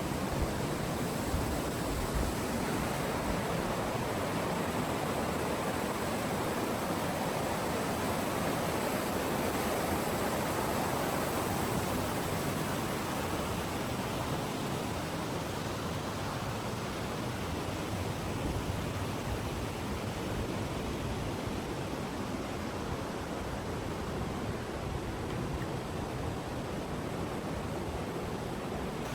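Steady rush of flowing stream water in a rocky canyon.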